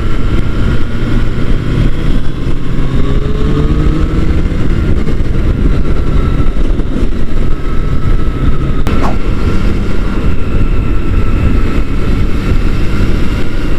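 Motorcycle engine running at road speed, with heavy wind rush over the microphone; the engine pitch rises a little a few seconds in as it accelerates. A short click sounds about nine seconds in.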